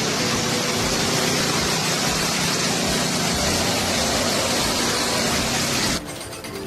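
Loud steady machine noise with strong hiss, cutting off abruptly about six seconds in.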